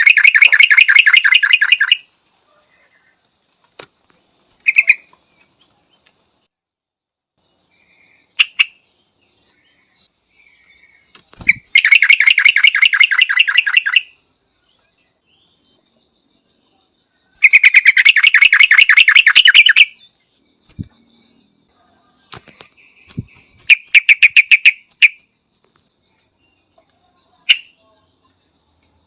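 Yellow-vented bulbul calling: four bursts of rapid chattering notes, about ten a second and each about two seconds long, with a few single short notes between them.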